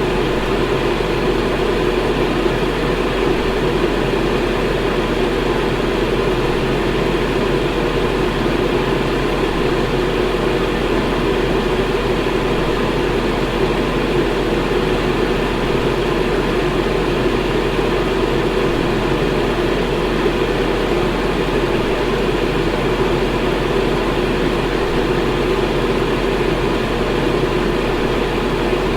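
Electric fan running steadily: a constant, even whoosh of moving air with a low hum underneath.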